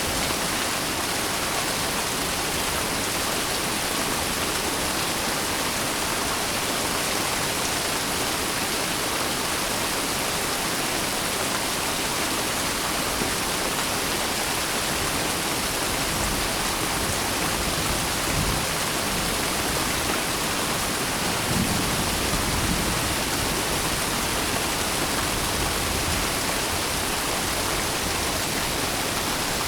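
Steady heavy rain, an even dense hiss with no pauses. There are a couple of brief low rumbles around the middle and about two-thirds of the way through.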